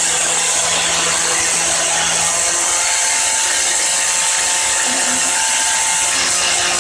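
A machine or power tool running steadily, with a strong hiss and faint steady tones that shift in pitch; a low hum drops out about two and a half seconds in.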